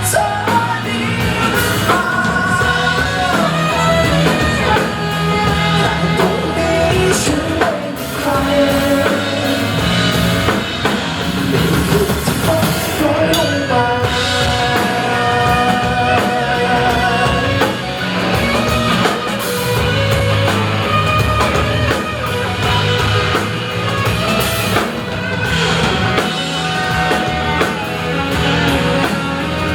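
A rock band playing live, with drums, guitars and singing.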